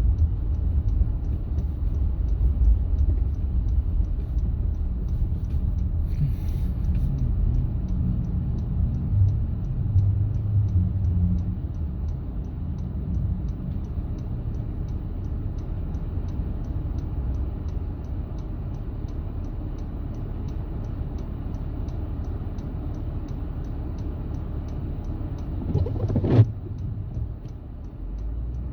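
A car driving along a road: a steady, low rumble of engine and road noise, louder in the first half. About 26 seconds in there is a single sharp knock.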